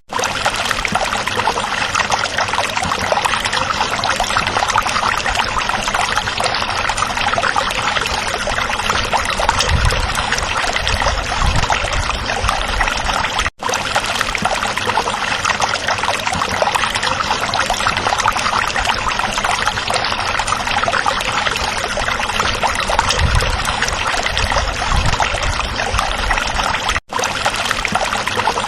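Stream water running over stones: a steady, dense babbling rush. It cuts out completely for a split second twice.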